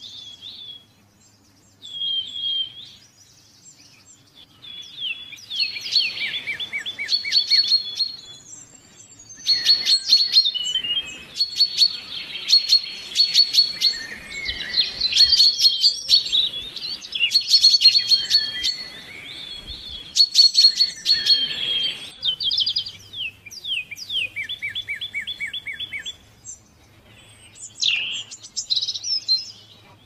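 Songbirds singing: repeated chirps and fast trills from several birds overlapping, thickest through the middle and thinning out near the start and end.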